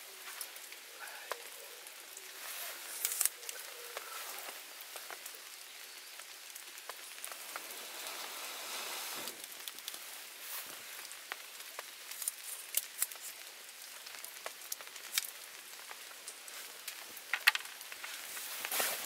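Steady rain falling in a forest, a constant hiss with many scattered drip-like ticks, a few of them sharper and louder.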